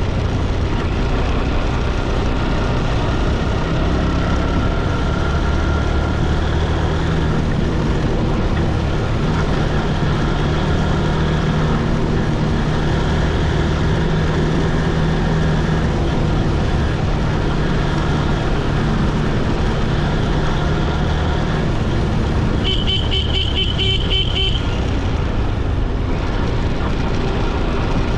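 Motorcycle riding along a road: steady engine and road noise. About three-quarters of the way through, a vehicle horn sounds for about two seconds in a rapid pulsing burst.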